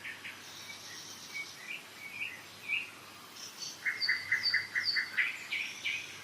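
Several songbirds singing in spring woodland: scattered short chirps and whistled notes from different birds, overlapping. Past the middle, one bird gives a quick run of about seven repeated notes, alongside high, falling whistles.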